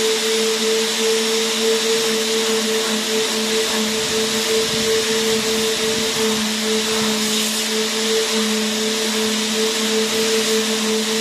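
Vacuum cleaner motor running at a constant speed: an even rushing hiss over a steady low hum.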